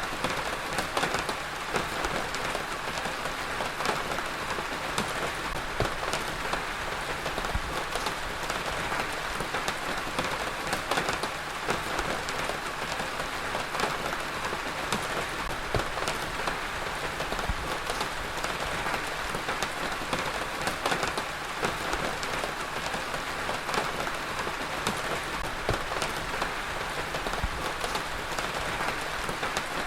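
Heavy rain falling steadily, a dense hiss with many distinct drops pattering on a hard surface.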